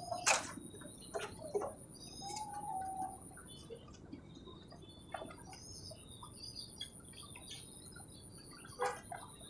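Birds chirping in the background over a steady high thin tone, with a few short sharp sounds, the loudest right at the start and another near the end.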